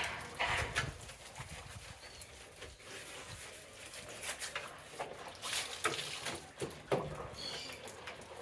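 Wet scrubbing and splashing on a muddy motorcycle's wheel area, in short irregular strokes with the odd knock.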